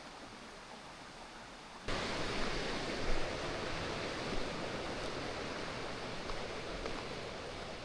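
Steady rushing of a waterfall and its stream. About two seconds in it jumps suddenly to a louder, fuller rush and holds there.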